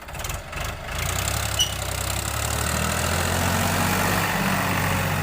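Tractor diesel engine running steadily, growing louder about a second in and then holding at a constant pitch.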